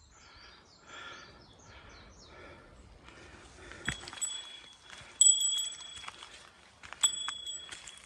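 A small metal bell jingling: several sharp strikes from about four seconds in, each ringing on briefly at a high, steady pitch. Before it, faint bird calls repeat.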